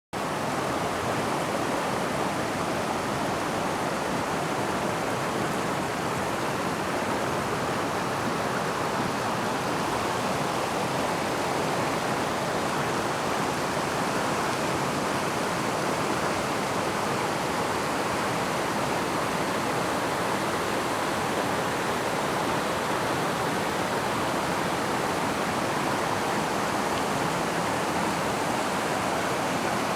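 Storm-swollen river rushing: a steady, unbroken wash of fast-flowing floodwater.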